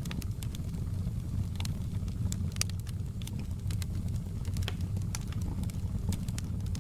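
Log fire crackling in a fireplace: a steady low rumble of the burning, with scattered sharp pops and snaps several times a second.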